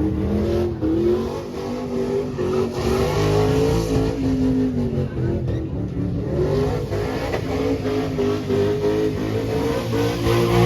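Truck engine revving, its pitch rising and falling.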